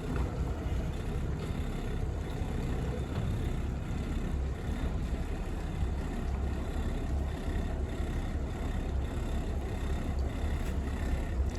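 Twin Caterpillar 3116 inline-six diesel engines of a Tollycraft 45 running at low speed as the boat manoeuvres. The sound is a steady low rumble.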